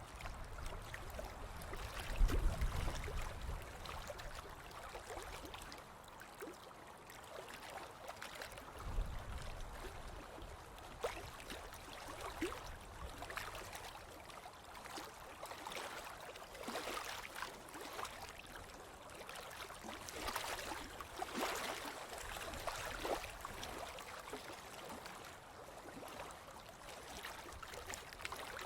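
Small ocean waves washing in and fizzing on the shore, with a continuous crackle of foam and water. Two low rumbles stand out, about two seconds in and again about nine seconds in.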